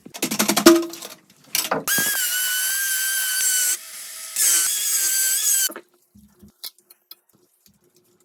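A power drill running in two bursts, a steady high whine of about two seconds, then another of just over a second after a short pause. A quick run of rapid clicks comes just before it.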